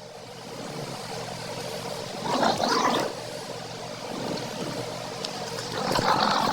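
A small terrier grumbling and growling in two rough bursts, about two seconds in and again near the end.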